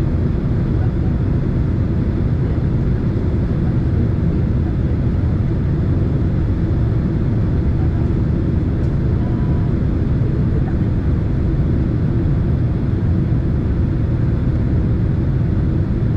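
Steady low roar inside the cabin of a Boeing 767 airliner in flight: engine and airflow noise, unchanging throughout.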